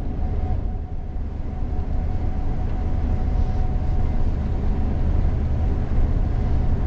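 Gleaner combine harvester running steadily through the harvest, heard from inside the cab: a constant low rumble with a faint steady whine over it.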